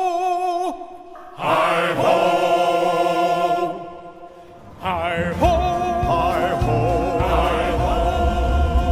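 Ride soundtrack of long, held wordless choir notes in three phrases with short breaks between them. A low rumble, typical of the coaster train running on its track, comes in about five and a half seconds in and stays under the music.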